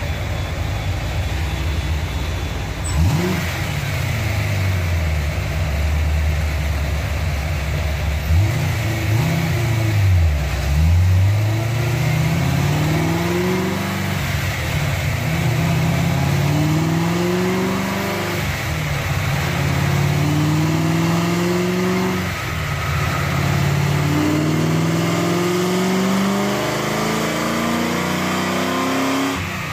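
1993 Ford Mustang's 306 cubic-inch small-block V8 running on a chassis dyno: a few revs up and down, then a full-throttle pull whose pitch climbs and drops back at each gear change. The run is the second pull, with fuel pressure at 50 psi and the engine still lean.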